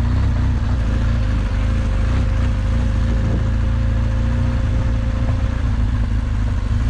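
BMW R1200GS Adventure's boxer-twin engine running steadily, a low rumble with a haze of noise over it.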